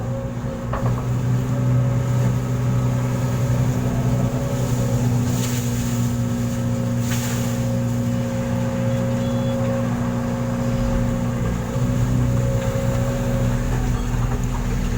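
Truck engine running steadily at a constant speed, with two brief hisses about five and a half and seven seconds in.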